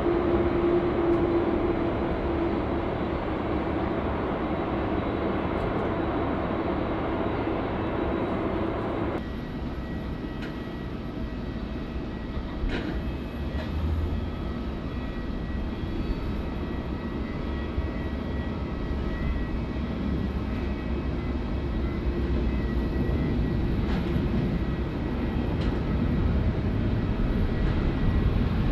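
Jet airliner engines heard from the ground: a steady whine over a rumble that cuts off abruptly about nine seconds in. It is replaced by a quieter, lower jet rumble that slowly grows louder toward the end.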